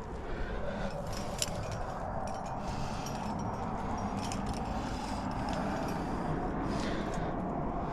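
Light metallic clinking of trad climbing gear (carabiners and protection racked on a harness) in scattered small ticks, over a steady rushing noise.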